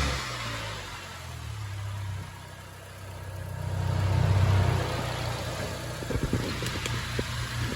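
Big-turbo Dodge SRT-4's turbocharged 2.4-litre four-cylinder idling, with a short rise in revs about three and a half seconds in that settles back to idle. A few light clicks come near the end.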